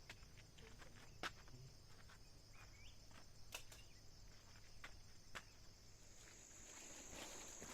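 Faint, steady insect chirring, with a few light clicks scattered through it and rustling starting near the end.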